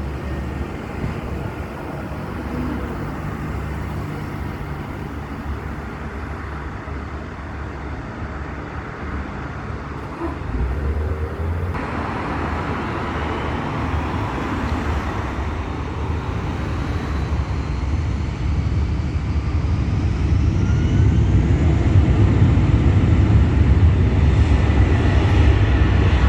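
Four-engine Airbus A380-800 jet engines powering up for the takeoff roll: a steady rumble that grows louder throughout, with a high whine that rises in pitch over the second half.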